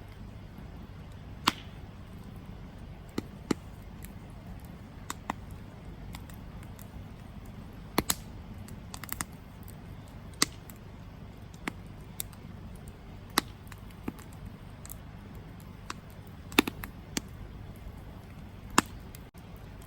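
Wood campfire burning: a steady low rumble and hiss of the flames with irregular sharp crackles and pops from the burning logs, a few of them much louder than the rest.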